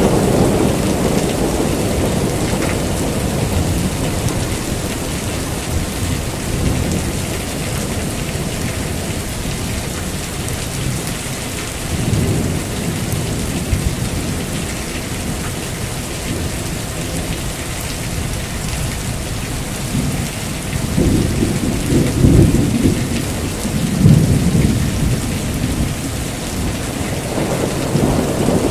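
Heavy rain falling steadily through a thunderstorm, with rolling thunder rumbling low beneath it. The thunder swells several times, most strongly about three quarters of the way in.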